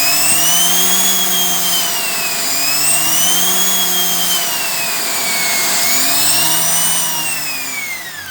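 Shark vacuum cleaner motor running with a high whine whose pitch rises and falls three times as its suction power is turned up and down, then winds down near the end.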